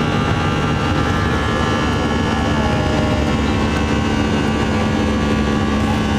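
Jet airliner's engines running steadily at high power after takeoff: a dense, even drone with several steady tones in it.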